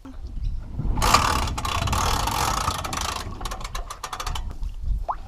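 Boat trailer's hand winch at a launch: a rush of noise for about two seconds, then a quick run of ratchet clicks as the winch is worked.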